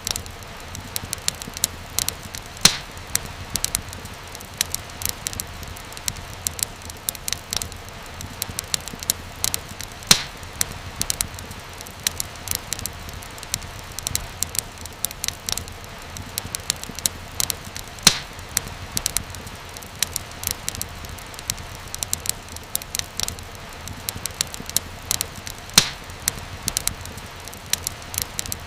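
Wood fire crackling steadily in a fireplace: frequent small sharp snaps, with a louder pop every several seconds, over a low steady rumble.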